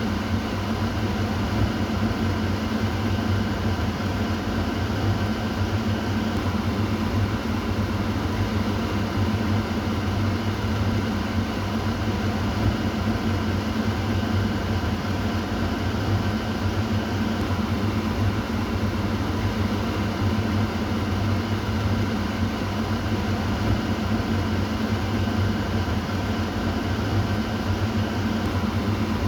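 Kitchen exhaust fan running steadily: a constant rush of air over a low motor hum, with no change in speed.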